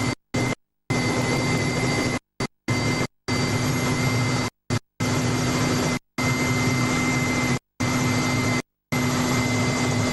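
Helicopter turbine and rotor noise heard from inside the cabin: a steady loud rush with a low hum and a high whine. The sound cuts out to silence about ten times for split seconds, which are dropouts in the recording.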